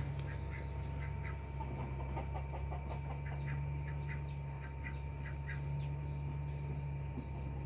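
Birds chirping in a quick run of short, falling chirps, over a steady low hum.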